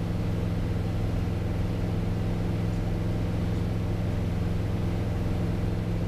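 Piper PA-28 Cherokee 180's four-cylinder Lycoming engine and propeller droning steadily in the cockpit as the aircraft climbs, with a constant low hum and no change in power.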